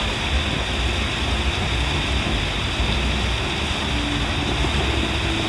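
Distant fireworks barrage merging into a continuous low rumble, with no single bang standing out.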